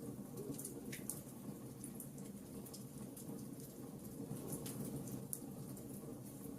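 Wood fire crackling: scattered small pops and crackles, several a second, over a steady low rush of the flames.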